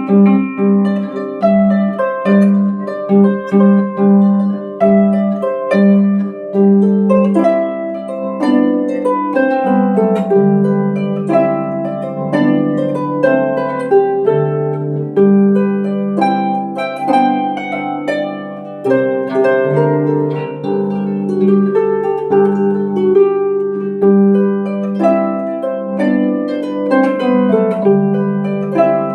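Celtic harp playing a melody over plucked bass notes, with a quick repeated low note for the first few seconds, then held bass notes under the tune.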